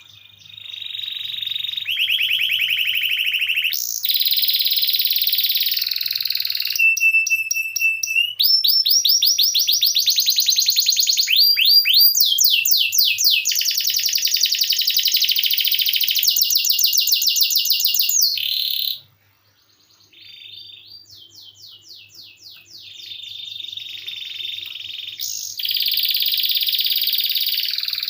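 Domestic canary singing a long, continuous song of rapid rolling trills, switching from one trill type to another every few seconds. There is a brief pause a little past halfway.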